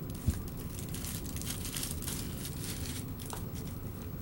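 Hands handling a window bird feeder's parts and packaging: irregular crinkling and rustling with light clicks, and one sharp knock about a quarter second in.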